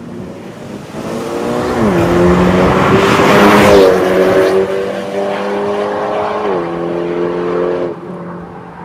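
Exhaust of a BMW 330i's turbocharged B48 four-cylinder through a valved MS-R catback, heard under acceleration. The pitch drops sharply about two seconds in and again about six and a half seconds in, like upshifts, and it is loudest around three and a half seconds in.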